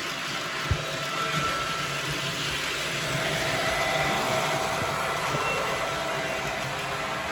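Model train running on the layout: a steady whir of the locomotive's electric motor and wheels on the track, a little louder around the middle. A single short knock comes just under a second in.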